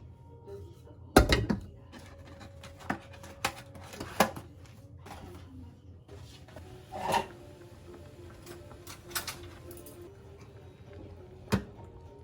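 A handful of irregular knocks and clicks, like things being set down or handled, the loudest a little after a second in, over faint background music.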